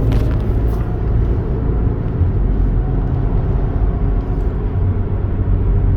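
Steady low vehicle rumble: engine and exhaust running with road noise, without clear revs or changes.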